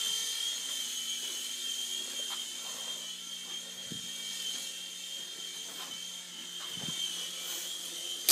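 Toy airplane's small electric motor and propeller whining at a steady high pitch after spinning up, then a sharp knock near the end as the whine stops.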